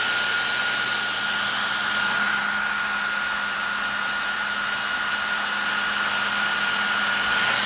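Hair dryer running steadily: a constant high motor whine over the rush of blown air.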